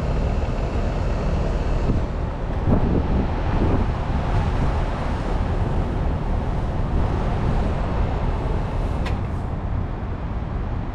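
Steady low background rumble, with a faint click about nine seconds in.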